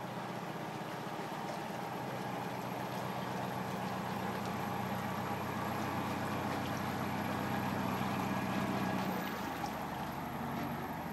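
Canal boat engine running steadily, its note changing about nine seconds in.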